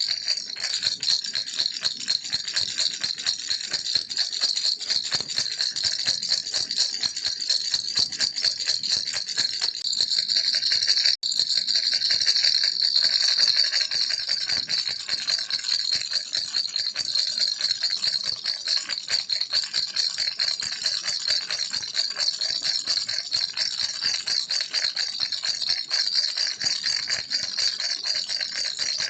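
Baby rattle shaken steadily and fast, a continuous stream of quick rattling clicks. It breaks off for an instant about eleven seconds in and comes back a little louder for a few seconds.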